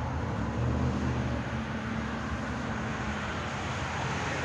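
Steady low mechanical hum, like a running engine or motor, with a constant drone and no sudden sounds.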